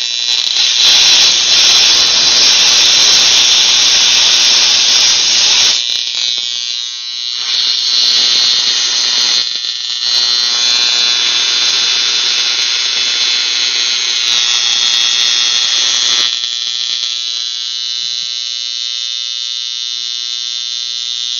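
High-voltage plasma spark buzzing steadily at a high pitch, with steam hissing through it in three stretches over the first sixteen seconds or so.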